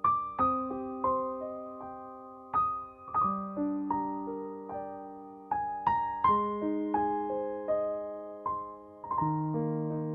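Background music: a soft piano or electric-piano melody, single notes and chords struck every half second or so, each fading away.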